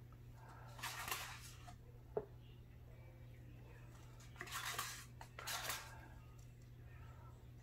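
Paint supplies being handled while the pour colours are set out: three short scraping, rustling noises and one sharp click, over a faint steady low hum.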